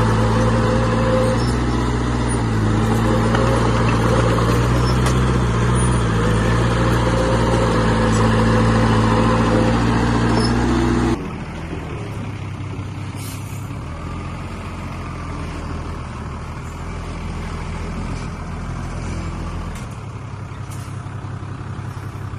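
Heavy diesel construction machinery running with a steady engine hum. About halfway through, the sound cuts abruptly to a quieter engine.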